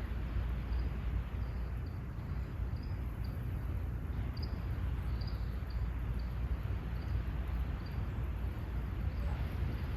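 Outdoor ambience: short, faint, high chirps like a cricket's, repeating irregularly over a steady low rumble.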